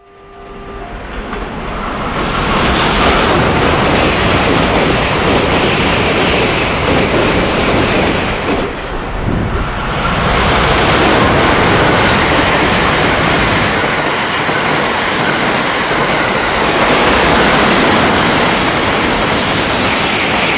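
A train passing at speed: a loud, even rush of running and air noise that swells up within about two seconds, dips briefly about nine seconds in, then swells again.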